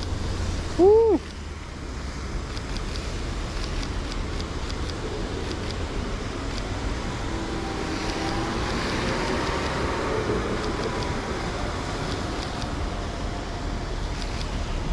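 Steady wash of rain and traffic on a wet street, with a vehicle's tyres hissing past on the wet road, swelling around the middle and then fading.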